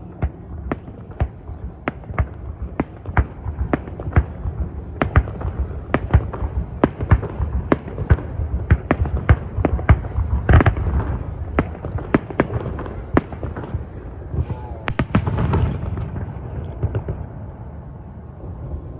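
Fireworks display, with shells bursting in a rapid run of sharp bangs over a low rumble. The bangs come thickest in the middle stretch and thin out near the end.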